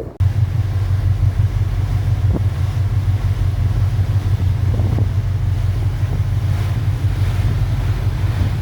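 Wind buffeting the microphone aboard a ferry under way, a steady low rumble with wash of sea and engine noise beneath it.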